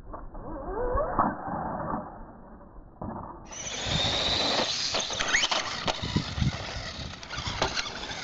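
Radio-controlled truck's RS540 electric motor and gears whining as it accelerates, the pitch rising, with short knocks and clatter as the truck drives.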